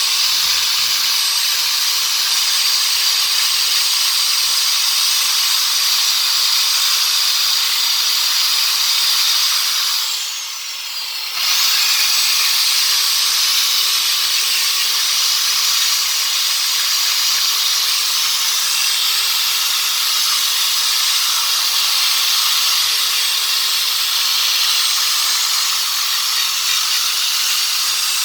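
Small high-speed rotary tool running steadily, grinding with a hissing rasp. About ten seconds in it winds down briefly and then spins back up.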